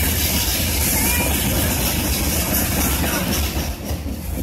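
Freight train cars rolling past: a steady rumble and rattle of steel wheels on the rails, briefly quieter near the end.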